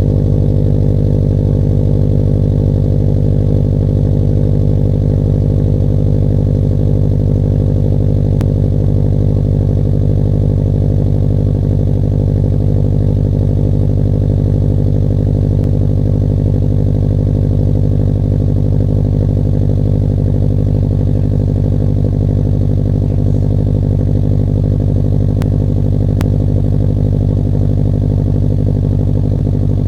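2011 Subaru STI's 2.5-litre turbocharged flat-four idling steadily after a cold start, heard through a COBB catted downpipe and Invidia Q300 exhaust.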